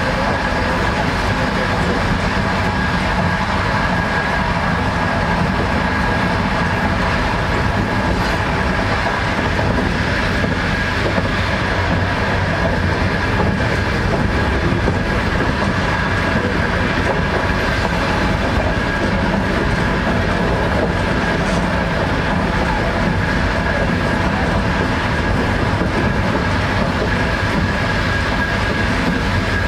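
Passenger train running at speed, heard from inside the carriage: a steady rumble and rush of wheels on the rails with a steady high tone through it.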